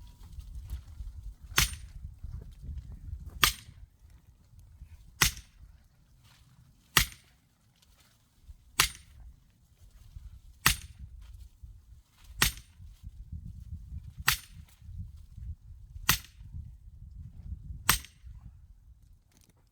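Axe striking a knotty, not fully dry oak log again and again in an effort to split it: ten sharp cracks, evenly spaced about every two seconds.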